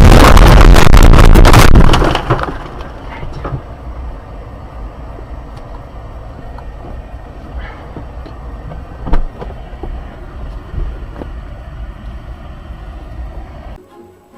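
Very loud, dense noise for about two seconds, then steady vehicle road noise with scattered clicks and one sharp knock about nine seconds in.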